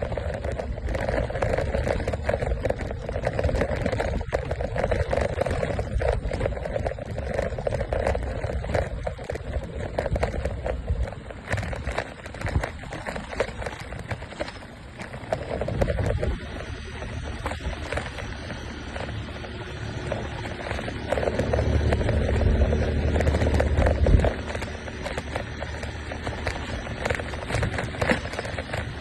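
Small scooter engine running during a ride, with wind rumbling in gusts on the microphone.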